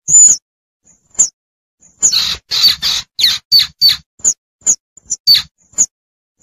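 Young squirrel's high-pitched squeaking distress calls to its mother: one long squeak, a few short chirps, then from about two seconds in a quick run of shorter, harsher chirps, several falling in pitch.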